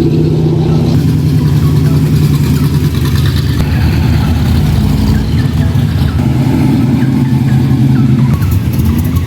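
A car engine running steadily, close by.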